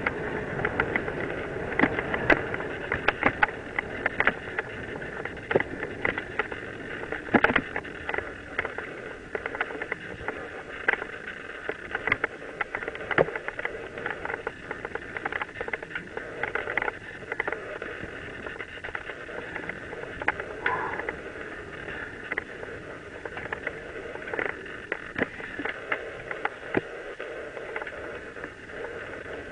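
Mountain bike rolling downhill on a dirt trail: steady tyre and riding noise with frequent sharp knocks and rattles as the bike goes over bumps.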